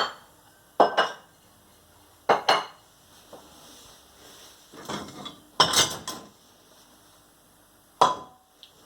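Dishes and glasses being set down on a kitchen counter while unloaded dishwasher items are sorted into groups: separate clinks and knocks a second or two apart, with a longer, louder clatter about halfway through.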